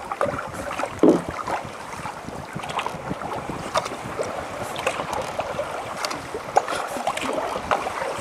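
Kayak paddle strokes in calm sea water: splashing and dripping with small sharp water sounds throughout, and one louder knock about a second in.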